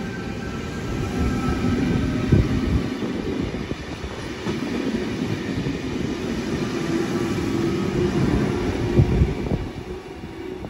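A double-deck V-set Intercity electric train runs past along the platform with a continuous rumble of wheels on rails and a couple of heavier thumps. It fades near the end as the train pulls away.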